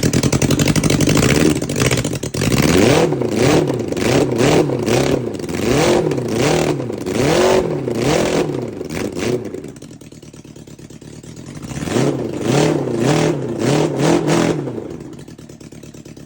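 1993 Suzuki GSX-R750 inline-four engine revving. It holds steady for a couple of seconds, then gets a quick series of throttle blips, each a rising and falling sweep in pitch. About ten seconds in it drops to idle, takes four more blips, and settles back to idle.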